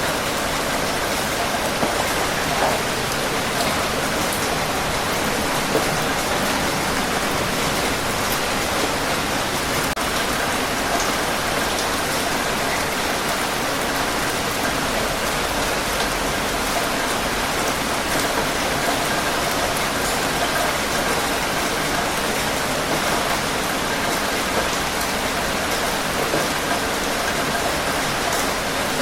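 Steady heavy rain falling on a hard surface, a dense even hiss with scattered individual drop taps.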